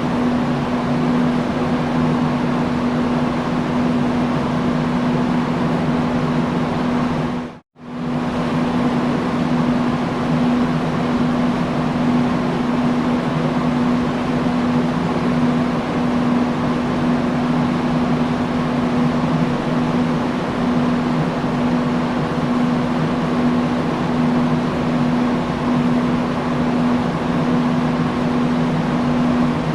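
Industrial fan running steadily: a constant rush of air with a low, steady hum. The sound dips out for a split second about eight seconds in and comes straight back.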